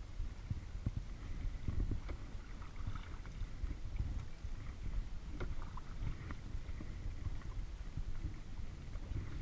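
Kayak being paddled on a lake: the paddle dips and water splashes and drips, with scattered small knocks over a steady low rumble.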